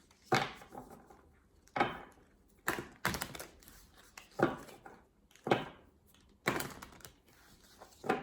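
Tarot cards being handled and set down on a hard table: about eight sharp taps and slaps at irregular intervals.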